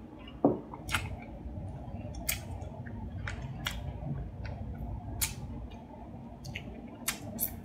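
Chewing a hard-shell taco close to the microphone: irregular sharp crunches, with one louder low thump about half a second in.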